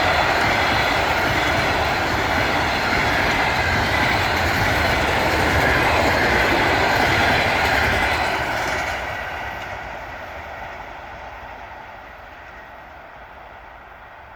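A passenger train hauled by a ChS7 electric locomotive rolling past, loud at first, then fading steadily as it moves away from about eight seconds in.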